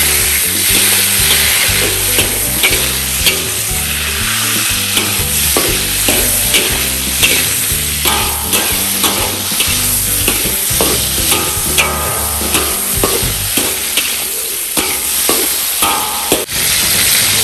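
Food sizzling as it fries in a pan while a spatula stirs it, with frequent sharp taps and scrapes of the spatula against the pan.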